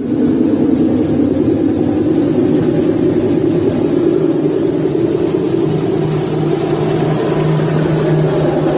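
Loud, steady engine or machinery drone with a constant low hum and a hiss over it, starting abruptly.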